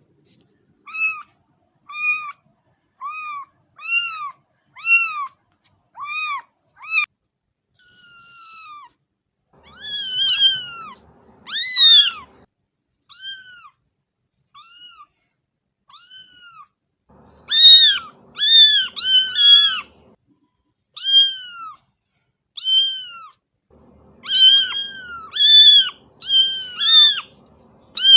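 Cat meowing over and over in short, high mews that rise and fall in pitch. At first they come about one a second; in the second half they are louder and come in quicker runs.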